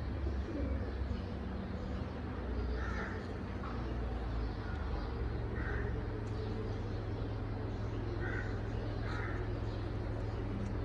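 A bird giving about four short calls, spaced a few seconds apart, over a steady low hum.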